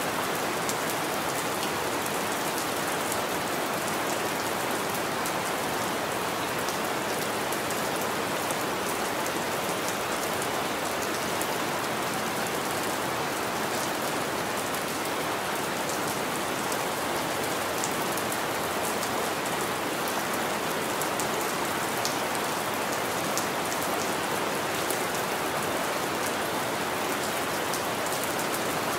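Steady rain falling and pattering on surfaces, an even hiss dotted with the small ticks of individual drops.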